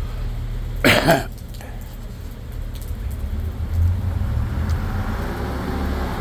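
Motor vehicle engine rumbling, growing louder after a few seconds as a vehicle runs close by, with one short loud rush of noise about a second in.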